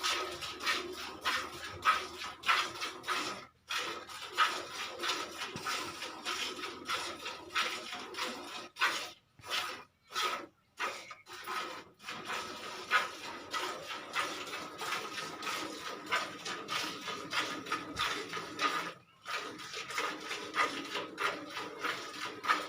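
Cow being milked by hand: quick rhythmic squirts of milk hitting a pail, roughly two to three a second, with a few short pauses.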